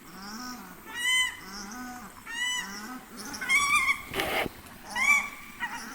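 A pair of paradise shelducks calling back and forth. The male gives deep, low honks and the female answers with higher, louder calls, the two taking turns several times. A brief burst of noise comes about four seconds in.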